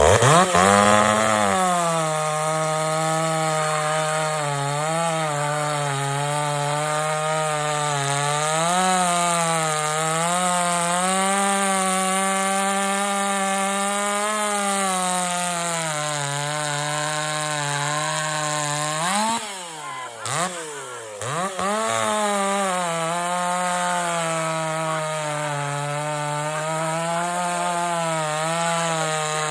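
Ported Jonsered 490 two-stroke chainsaw running near full throttle while cutting wood, its pitch wavering as it loads up in the cut. About twenty seconds in, the engine speed dips low twice and picks back up.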